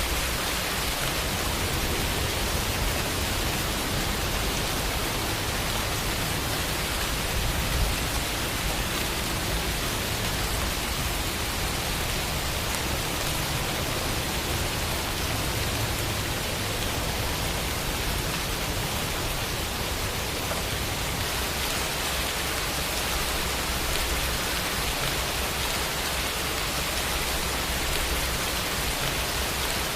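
Steady, even rain falling, a continuous hiss of drops with a small louder patter about eight seconds in.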